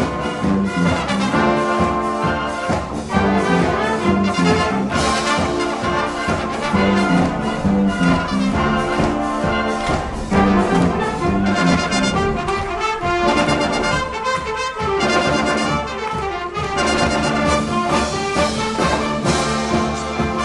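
High-school marching band playing live: brass (trumpets and trombones) over drums with a steady beat.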